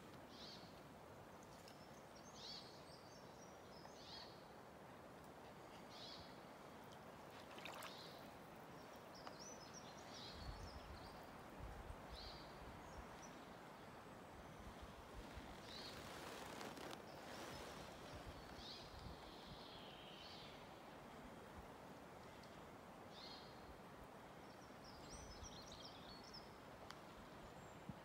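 Faint songbird calls, short chirping phrases repeating every second or two over a soft steady rush, with a few low rumbles midway.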